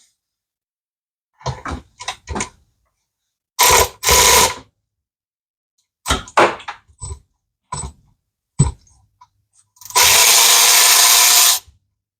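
A handheld power tool run in short bursts, with clicks and knocks of tools between them, then one longer steady run of about a second and a half near the end.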